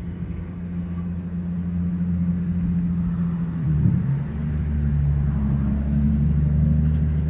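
Subway-yard rail equipment giving off a loud, steady low drone made of several held notes. About four seconds in, the drone dips briefly in pitch, then settles on a slightly different note.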